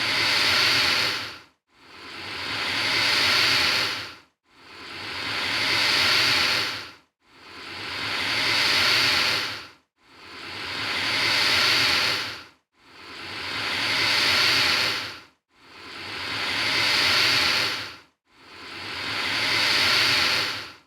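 Alligator hissing in a looped series of identical long hisses, each swelling over about two seconds and then cutting off, with a short silent gap before the next; about eight hisses.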